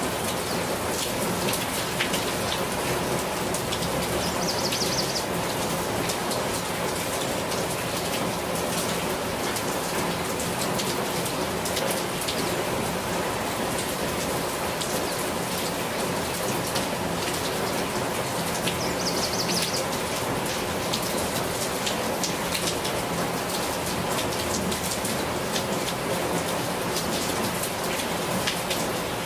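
Steady rain falling on broad leaves: an even hiss dense with the pattering ticks of single drops.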